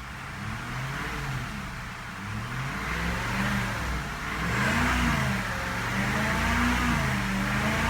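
2002 Cadillac DeVille's Northstar V8, with its accessory belt cut off, revved up and let back down again and again, the engine note rising and falling in smooth, even arches. The revving is smooth, a sign of a healthy engine.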